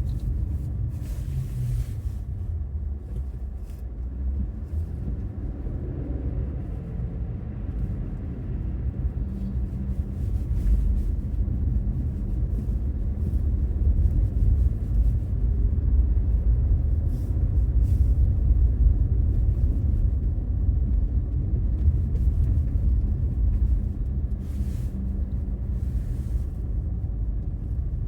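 Infiniti Q50 Red Sport 400 with its 3.0 L twin-turbo V6 driving steadily: a deep, continuous rumble of engine and road with a faint engine tone. It grows somewhat louder about ten seconds in.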